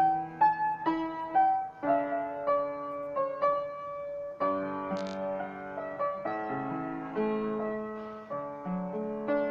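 Instrumental piano music: single struck notes about every half second to a second, ringing on over held lower notes.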